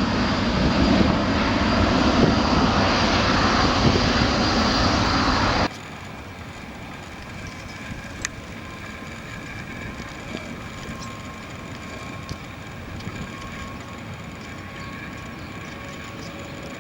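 Ryanair Boeing 737-800 jet engines running at takeoff power, a loud steady roar that cuts off suddenly about six seconds in. After that, a much quieter steady jet-engine noise from the next aircraft, an Airbus A320, with faint steady tones and a few light clicks.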